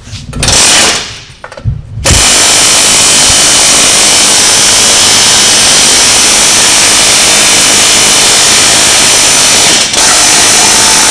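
Power tool running hard on a seized wheel hub assembly: a short burst about half a second in, then a long continuous run from about two seconds in, with a brief pause near the end.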